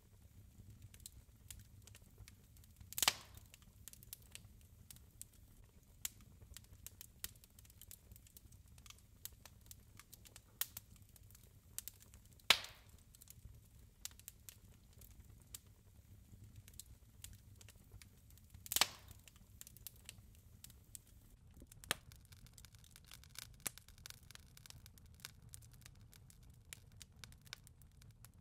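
Wood fire crackling in a fireplace: a steady patter of small crackles over a low rumble, with three loud sharp pops from the burning logs.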